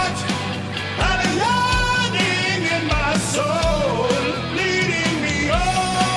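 Hard rock song with a sung lead vocal over guitars, bass and a steady kick-drum beat.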